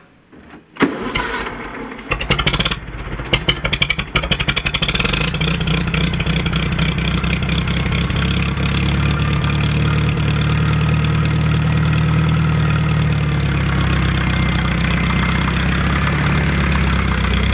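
International Harvester B414 tractor's four-cylinder gasoline engine being started: it cranks and fires unevenly for a few seconds, then catches and settles into steady running, which cuts off suddenly near the end.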